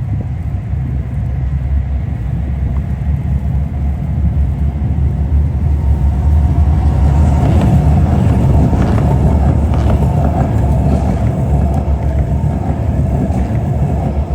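A road vehicle passing close by: a loud low rumble that builds to a peak about halfway through, then eases off.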